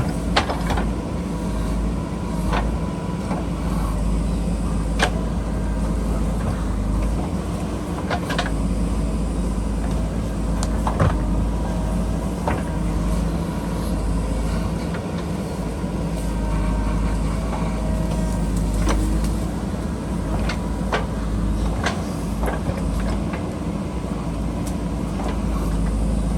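JCB backhoe loader's diesel engine running steadily under load while it digs, with scattered sharp knocks and clanks from the bucket striking rock and soil.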